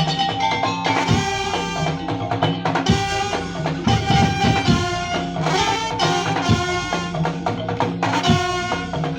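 Madurese ul daul ensemble playing: driving drums and wooden percussion under a held melody line.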